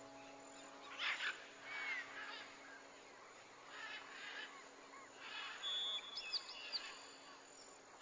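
Wild birds calling: scattered short, raspy high calls, with a few high chirps and a brief trill about six seconds in, over a faint held background tone.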